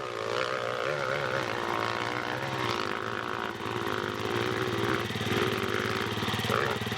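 Off-road motorcycle engine running hard, its revs wavering rapidly up and down as the rider works the course.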